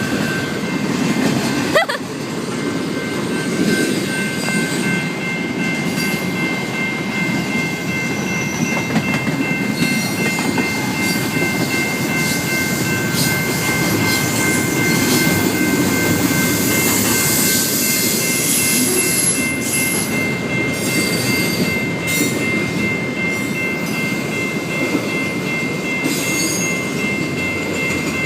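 A long train rolling past close by: a steady rumble of railroad cars on the track, with several steady high-pitched tones held throughout and a single sharp knock about two seconds in.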